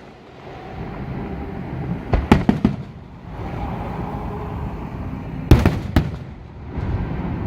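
Fireworks bursting overhead: a quick volley of several sharp bangs about two seconds in and another volley of three bangs about five and a half seconds in, with a low rumble between them.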